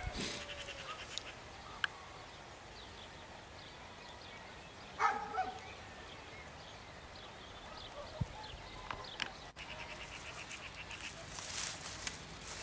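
Quiet outdoor background with a short animal call about five seconds in. Faint rapid high ticking comes near the start and again near the end.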